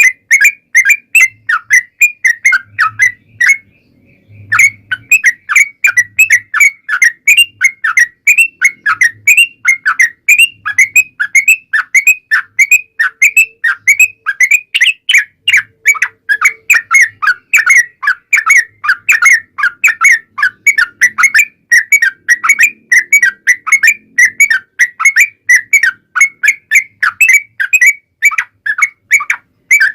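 Yellow-vented bulbul (trucukan) singing a long, quick run of short chattering, whistled notes, with one brief break about four seconds in.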